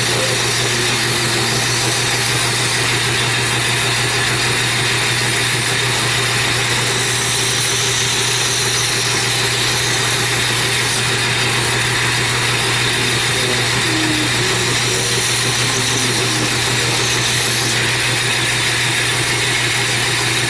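Belt grinder running steadily, its motor humming under the continuous hiss of a steel razor blade held against a 320-grit abrasive belt to sharpen the edge.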